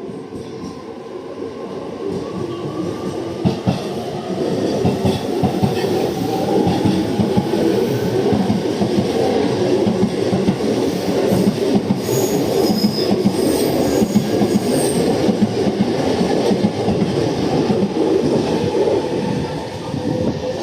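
Electric commuter train pulling out of the station. Its traction motors whine up in pitch as it accelerates, and the wheels and cars rumble past, growing louder.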